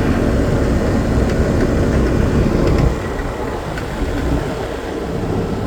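1999 Rheem Classic X 5-ton air conditioner condenser running: the three-phase Tecumseh AV reciprocating compressor's steady low hum under the condenser fan. It drops a little in level about three seconds in.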